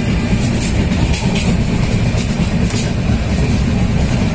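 Passenger train running at speed, heard from inside the coach: a steady loud rumble with several short sharp clicks from the wheels and track.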